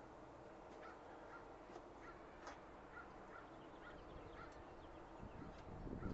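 Faint outdoor ambience with scattered short bird calls, and a low rumble about five seconds in.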